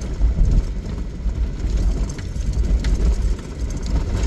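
Off-road vehicle driving along a muddy trail, its engine and tyres giving a rough, uneven low rumble.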